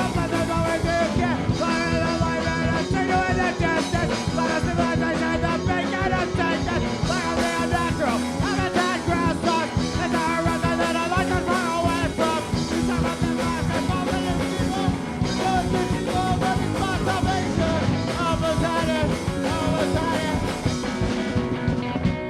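A live band playing a song at full volume.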